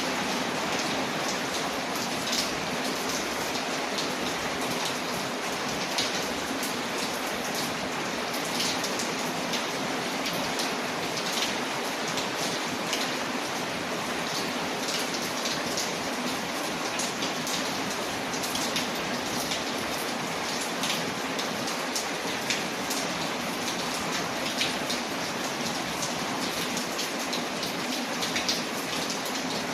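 Steady rain on a window layered with a crackling fireplace fire: an even hiss with many small sharp pops and ticks scattered through it.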